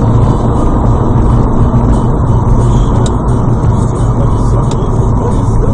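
Road vehicle running, a steady, loud rumble of engine and road noise with a few faint clicks.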